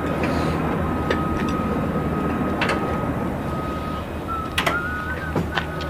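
Machinery running: a steady low rumble under a constant high-pitched whine, with a few sharp knocks and clanks scattered through.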